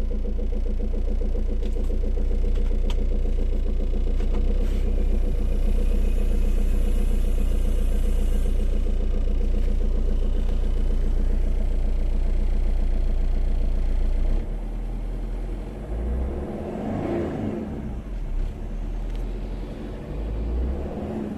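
Tata Vista's Fiat 1.3 Multijet four-cylinder turbo-diesel idling steadily with an even diesel rumble. About 14 seconds in the sound drops, and the engine is then revved briefly twice, rising and falling.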